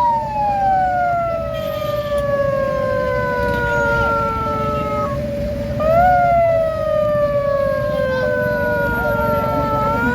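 A siren whose pitch slides slowly down for about five seconds, jumps back up about six seconds in and slides down again. Under it runs a steady lower tone and a dense crowd-and-traffic din.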